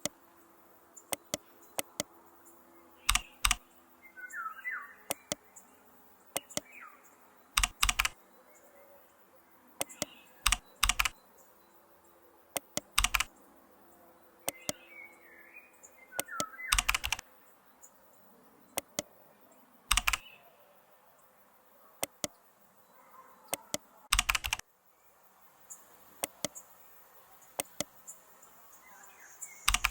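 Sharp clicks of a computer being worked, coming singly and in quick pairs every few seconds over a faint steady hum. A few short high chirps sound between them, about five seconds in and again past the middle.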